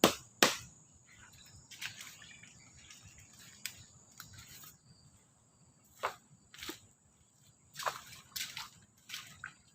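Two sharp strikes on wood about half a second apart at the start, as in shelter building with a blade or mallet, then scattered softer knocks and rustling of handling work.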